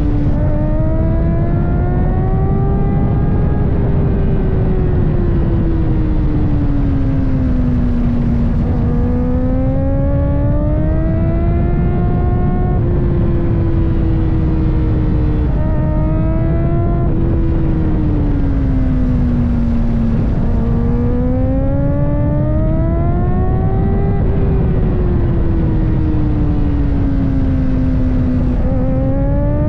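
Kawasaki ZX-4RR's 399 cc inline-four engine running at high revs under way, its pitch rising and falling gently every few seconds, with brief dips about halfway and near the end. A steady low rush runs underneath.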